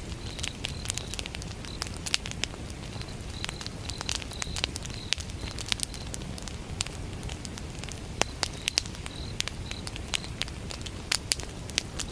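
Wood fire burning, with frequent sharp pops and crackles over a low rumble, while a cricket chirps in short, evenly repeated high pulses.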